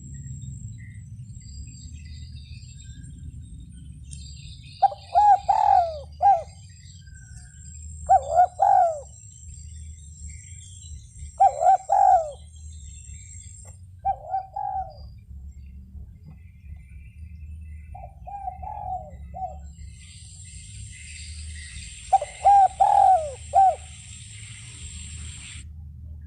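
Spotted dove (derkuku) cooing: six separate multi-note coo phrases, each about a second and a half long, spaced a few seconds apart.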